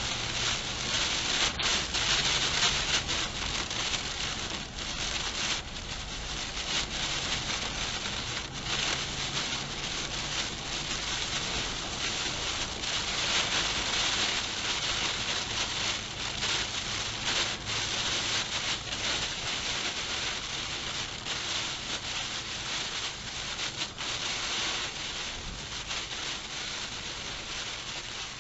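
Steady rain falling, an even hiss that swells and eases a little, with a faint low hum underneath.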